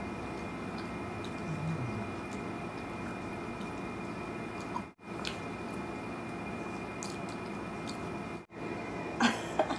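Two people chewing juicy cantaloupe and watermelon: faint wet mouth sounds and small clicks over a steady background hiss with a faint high whine. The sound cuts out briefly twice, and a short, louder throat or mouth sound comes near the end.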